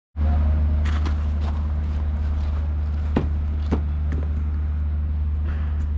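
Steady low engine drone of a moving vehicle, with a few sharp clicks and knocks at irregular intervals.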